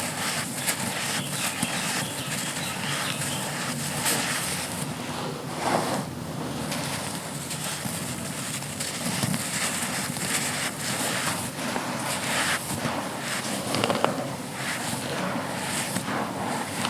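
Dry, crumbly compacted material being broken and crushed: a dense, continuous stream of small crunches and crackles, with a few louder crunches here and there.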